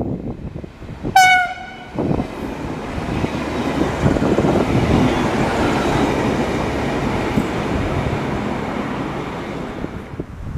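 A train sounds one short horn blast about a second in, then passes with a steady rumble of wheels on the rails that eases off near the end.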